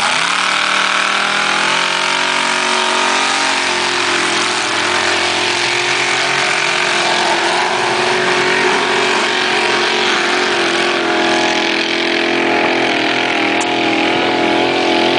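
Pulling tractor's engine held at full throttle under load during a pull, its pitch holding fairly steady throughout.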